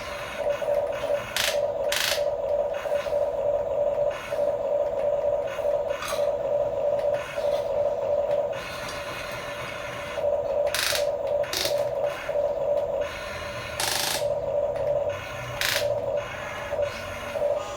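Small electric gear motors of a radio-controlled toy construction vehicle whining in short runs, starting and stopping again and again as the controls are worked, with a few sharp plastic clicks in between.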